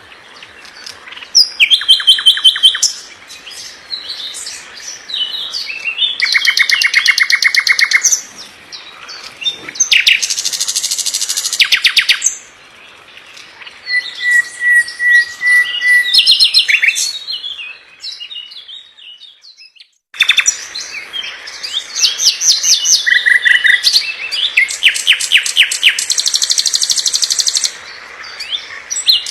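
Songbird song recording: loud, fast trills and rapid runs of repeated chirping notes, with one steady whistled note partway through. Near two-thirds of the way through, the song fades into a brief silence and then starts again abruptly.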